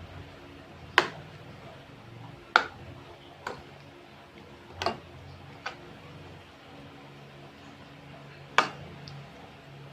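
Six sharp, short taps at uneven intervals over a faint steady hum.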